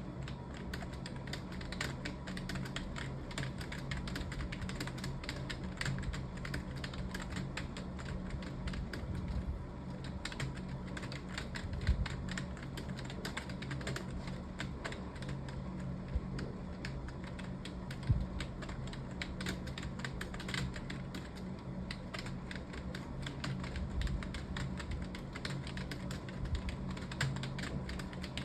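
Computer keyboard being typed on fast and without pause, many key clicks a second, with a couple of louder key strikes midway, over a steady low hum.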